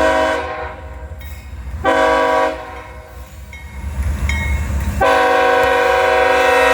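Diesel locomotive's multi-chime air horn sounding two short blasts, then a long blast starting about five seconds in, over the low rumble of the passing train.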